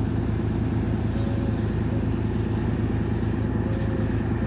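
Class 195 diesel multiple unit running at the level crossing, its underfloor diesel engine giving a steady low note with a fast even pulse.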